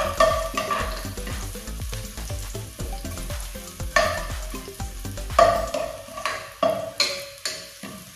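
Chopped garlic sizzling in hot oil in an enamel pot while a spatula stirs and scrapes it, with several sharp knocks of the spatula against the pot that ring briefly.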